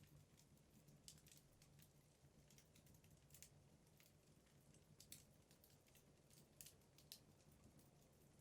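Faint crackling of wood logs burning in a fireplace: scattered, irregular sharp clicks, about one or two a second, over a low steady hum.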